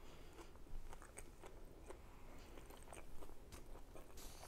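Close-miked chewing of crisp, battered deep-fried food, with many small crunches and wet mouth clicks. A short scratchy noise comes near the end.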